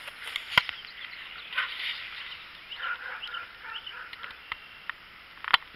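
Birds calling in a run of short chirps, with a few sharp clicks about half a second in and again near the end.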